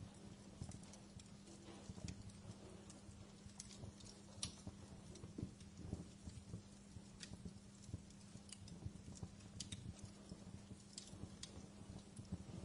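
Wood fire crackling in a fireplace: irregular small pops and snaps over a low rumble and a steady low hum.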